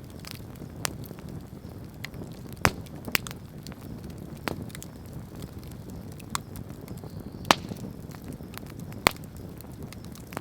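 Wood campfire burning with a steady low rumble of flame and irregular crackles, with sharp pops about 2.5, 7.5 and 9 seconds in.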